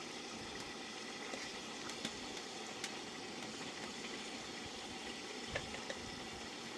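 Pot of food boiling on the fire: a steady bubbling hiss with scattered small pops and clicks.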